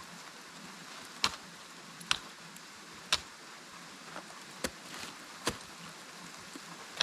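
Ice climbing tools and crampons striking into waterfall ice: about half a dozen sharp hits, roughly one a second, at an uneven pace.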